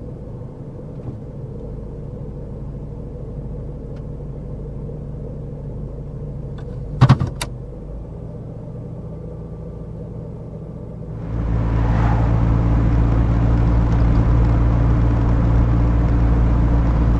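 Car engine and road noise heard from inside a car through a dashcam microphone. About seven seconds in there are two sharp knocks close together. About eleven seconds in the sound jumps to a louder, steady rush of engine and road noise.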